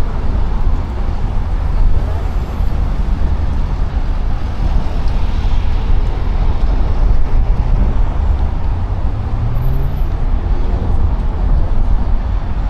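Steady road traffic rumble from passing cars, with one vehicle's engine rising in pitch about nine seconds in.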